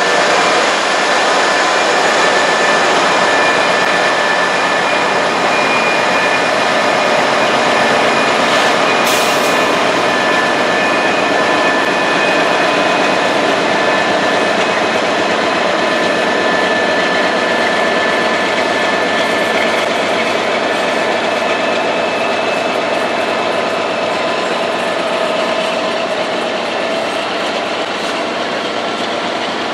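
Freight train cars rolling past, a loud steady rush of wheels on rail with thin, steady high squealing tones over it and one sharp click about nine seconds in. The noise eases slightly near the end.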